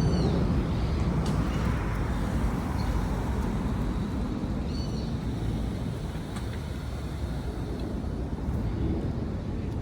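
City street ambience: a steady rush of traffic noise, with three short high chirps about five seconds apart, at the start, in the middle and at the end.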